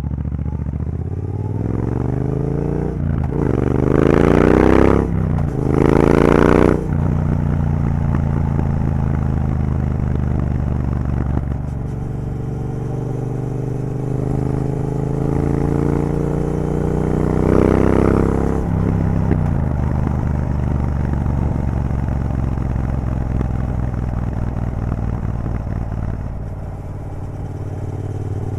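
Triumph Bobber's 1200cc parallel-twin engine through aftermarket Vance & Hines exhaust with the catalytic converter removed, heard from the rider's seat. It pulls hard up through the gears in the first several seconds, with quick breaks at each shift, then runs steadily at cruising speed. A second burst of throttle comes a little past halfway.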